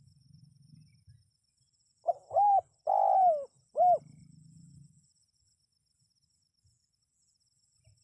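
Spotted dove cooing one phrase of four notes, the third drawn out longest, with a faint steady high-pitched trill behind it.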